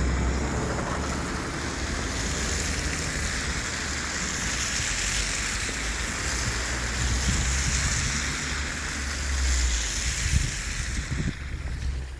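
Moving city bus: a low steady rumble under a continuous rushing hiss, the hiss cutting off sharply near the end.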